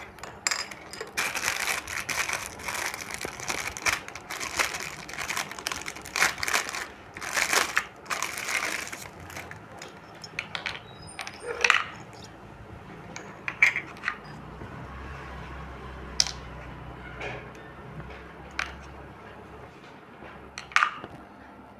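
Dense crinkling and clicking, as of something being handled, for about the first nine seconds. After that come scattered single clicks and knocks.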